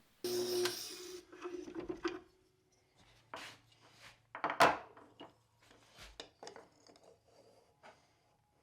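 Wooden hand plane with a steel sole being handled, with rubbing and a scattered series of short wooden knocks; the loudest knock comes about four and a half seconds in.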